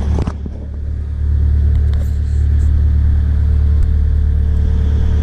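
Kubota KX057-5 excavator's diesel engine running steadily at high throttle, around its 2300 RPM full speed. The level dips briefly near the start, then holds steady.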